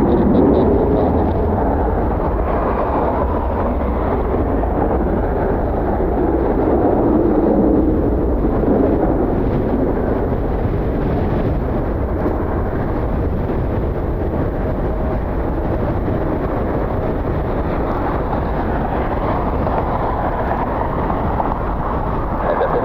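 Strong gusty wind buffeting the microphone: a loud, low rumble that swells and eases without letting up.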